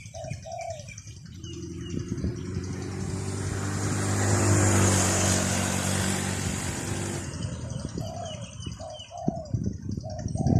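A motor vehicle passes by, building up to its loudest about halfway through and fading away by about 7 seconds. Doves coo at the start and again near the end.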